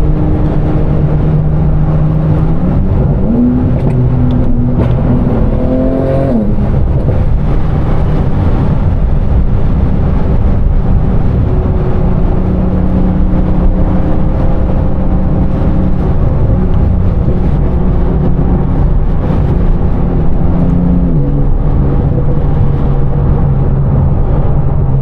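Sports-car engine and road noise heard from inside the cabin while driving. About three seconds in, the engine note climbs for a few seconds under acceleration. It then holds steady at cruise and drops a little about 21 seconds in.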